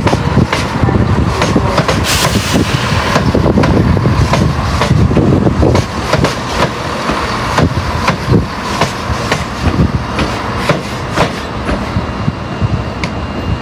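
A train moving through the station, its wheels clicking rapidly and irregularly over rail joints and pointwork over a steady rumble. The clatter eases a little about halfway through.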